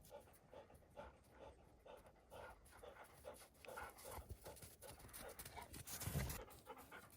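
A dog panting quickly and steadily, about three breaths a second, faint.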